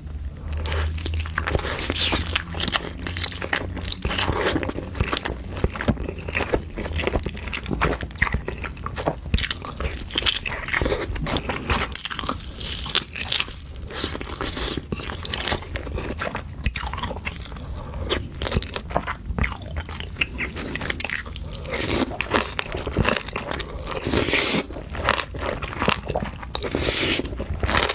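Close-miked eating of seafood: steady, irregular biting, crunching and chewing.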